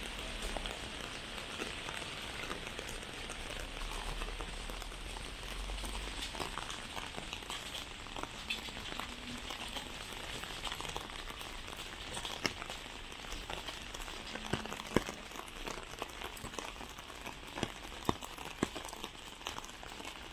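Heavy rain: a steady hiss of rainfall with many sharp drop ticks, a few of them louder in the second half.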